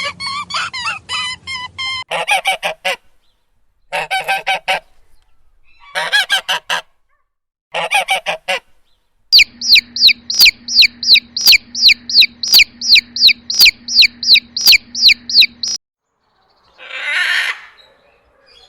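Birds honking, goose-like, in several short runs of rapid calls. A longer run of quick, high calls follows, each falling in pitch, about three a second. Two softer, rough calls come near the end.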